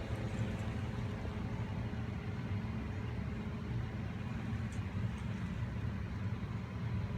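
A steady low rumble, like a motor or vehicle running, with no clear change throughout.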